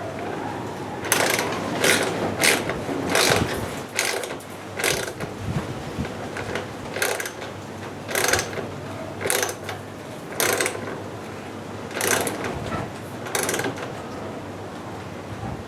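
A series of sharp mechanical clicks and clacks, irregularly spaced at roughly one every half second to a second, some in quick pairs.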